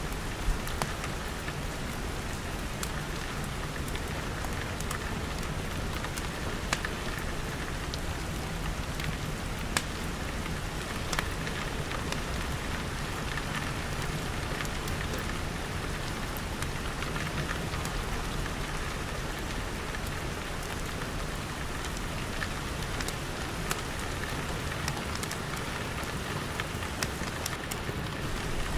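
Steady rain pattering on glass, with scattered sharp clicks every second or two.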